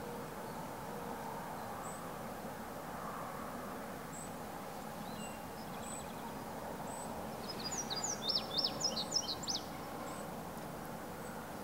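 Steady woodland background hiss with faint, short, high chirps now and then. About eight seconds in, a songbird sings a quick series of sharp down-slurred notes for about two seconds, the loudest sound here.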